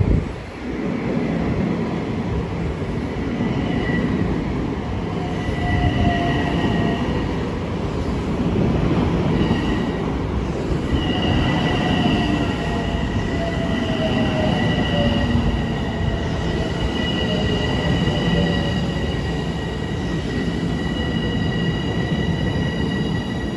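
Long Island Rail Road train running past over steady track rumble, its wheels squealing on the rails in high thin tones that come and go at first, then hold from about halfway through and dip in pitch at the very end.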